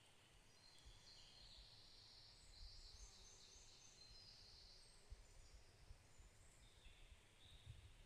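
Faint birdsong: high warbling phrases, one running from about half a second to five seconds in and another near the end, over a low, uneven rumble.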